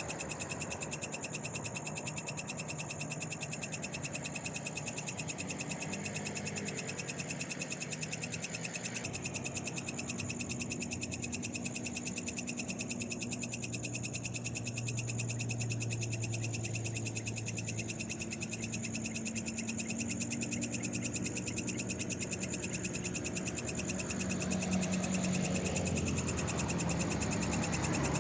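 Night chorus of frogs and other night animals, a steady, rapidly pulsing trill that goes on without a break.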